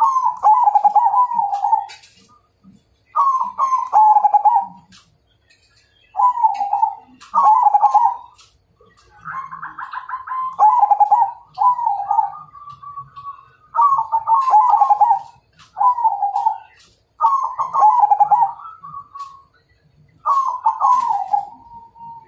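Zebra dove (perkutut) cooing: about ten phrases, each a rapid run of stuttering notes lasting a second or two, with short gaps between them. Some phrases end in a drawn-out higher note.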